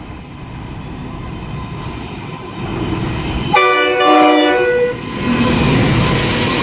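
Freight train led by NR class diesel-electric locomotive NR100 approaching and passing at speed: the rumble builds, then the locomotive's horn sounds one chord-like blast of about a second and a half, about three and a half seconds in. The loud rush of the passing train follows.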